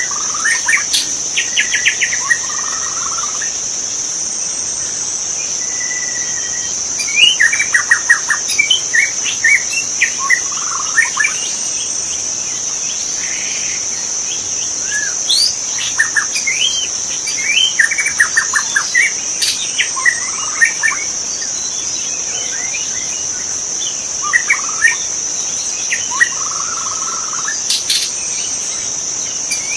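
White-rumped shama (murai batu) singing, with bursts of varied whistled phrases and quick note runs separated by short pauses. A constant high-pitched insect drone runs underneath.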